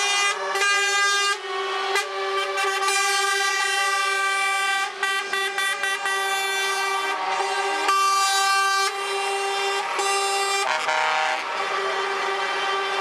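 Truck air horns blowing: several horns of different pitch overlap in long held blasts. A run of short toots comes about five seconds in.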